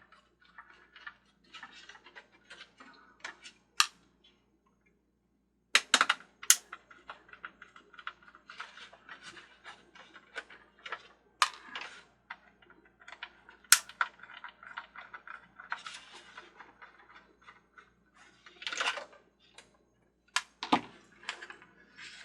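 Small screws being backed out with a screwdriver and a plastic-mounted circuit board being handled: irregular light clicks, ticks and scraping, with a few sharper clicks and a short pause about four seconds in.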